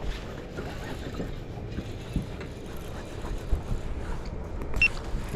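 Gusty wind rumbling on the microphone, with scattered small clicks and a brief high squeak near the end.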